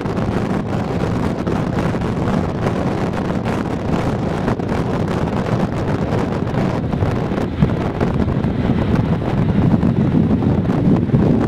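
Wind blowing across the microphone, a steady rumbling rush with frequent short crackles that grows a little louder near the end.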